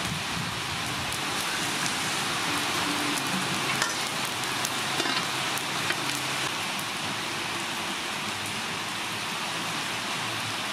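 Steady hiss of rain falling, with a few light knocks of an aluminium pot being handled near the middle.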